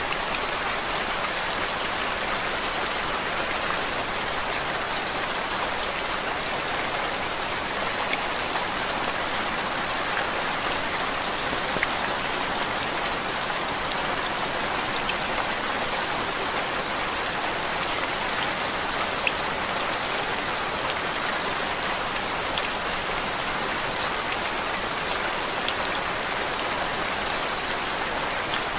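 Steady rain, used as a continuous white-noise track: an even hiss with scattered small drop ticks.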